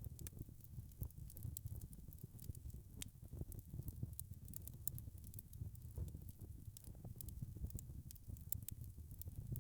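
Wood fire burning in a fireplace: a low, steady rumble of flames with frequent small crackles and pops scattered throughout.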